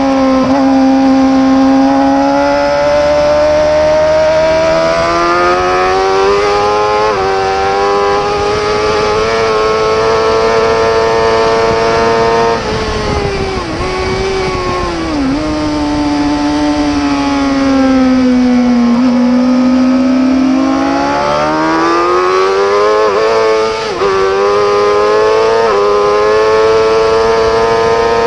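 Superbike racing motorcycle engine at high revs, pulling hard and shifting up through the gears. It then shuts off, with two quick downshift blips, and runs at low revs through a corner before accelerating again with a rapid series of upshifts.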